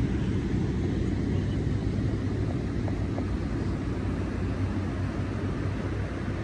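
Steady low rumble of wind buffeting the microphone over ocean surf on the beach.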